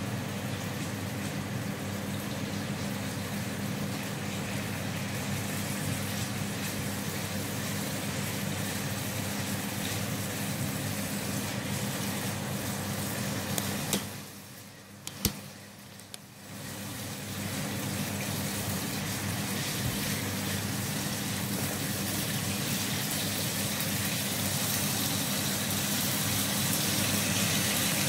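Diced chicken frying in oil in a non-stick wok on an induction hob: a steady sizzle with a steady fan hum under it, cutting out briefly about halfway through. The chicken is being half-cooked first so that its juices cook off.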